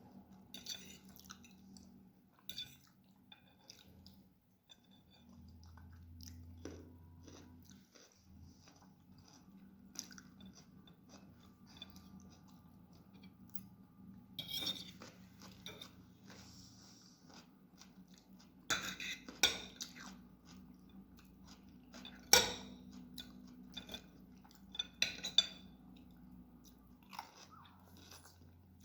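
Close-up eating sounds of a person chewing and slurping noodle dish, with wet mouth clicks, and several sharper louder bursts about halfway through and near the end.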